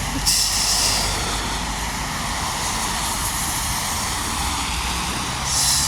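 Steady engine rumble with a low hum, with a brief rush of hiss shortly after the start and again near the end.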